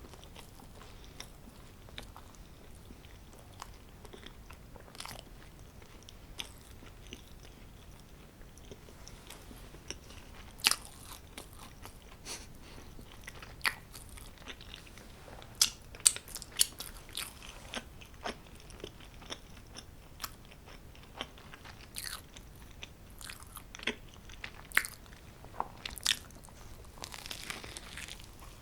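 A person biting and chewing homemade pizza close to the microphone, with many scattered sharp, crunchy clicks between quieter chewing.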